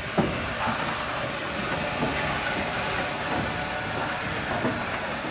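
Steam locomotive on the move: a steady hiss and rail noise, with one sharp knock just after the start and a few softer knocks later.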